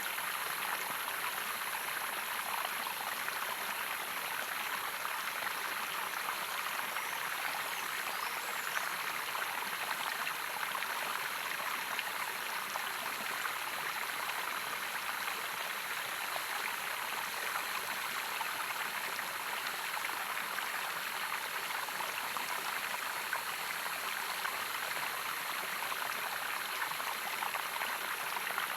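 Running water in a stream, a steady, even rush that holds at one level throughout.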